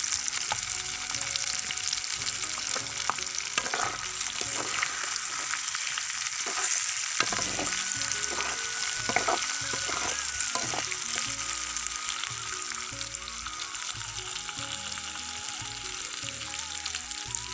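Small fish, prawns and vegetables sizzling steadily in hot oil in a pan. A spoon stirring through them scrapes and knocks against the pan now and then, mostly in the middle few seconds.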